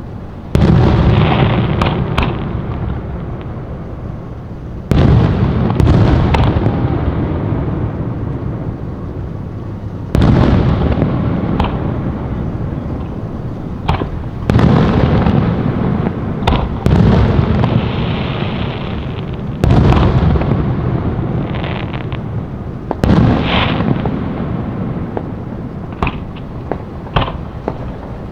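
Aerial fireworks bursting: six big booms about four to five seconds apart, each trailing off in a long rolling rumble, with sharp cracks and pops in between.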